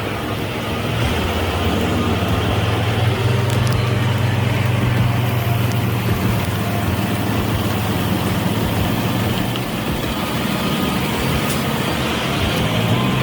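Heavy-haul truck engine running steadily on the road, a low, continuous drone that fills out about a second in.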